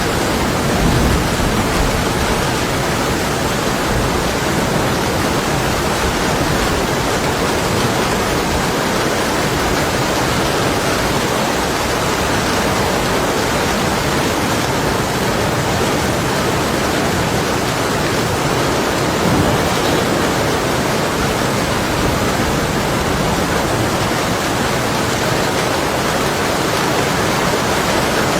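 Heavy storm rain beating steadily on window glass, a dense even hiss, with a low rumble of distant thunder swelling about a second in and again around two-thirds of the way through.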